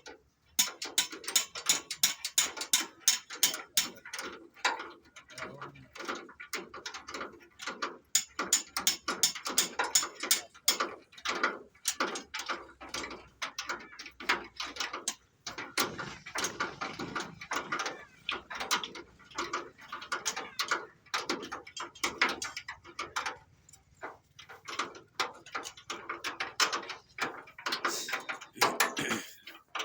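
Rapid, irregular ratchet-like metallic clicking, several clicks a second, going on and on.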